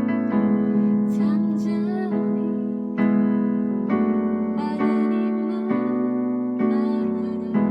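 A slow hymn played on a piano-type keyboard, with full sustained chords struck about once a second.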